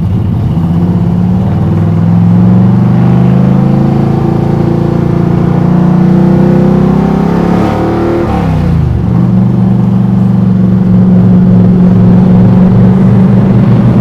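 Jon Kaase Boss 9 big-block Ford V8 (521 cubic inches, fuel-injected) pulling the car down the road, its note rising slowly under load. About eight seconds in the revs drop sharply, then the engine holds a steady lower note.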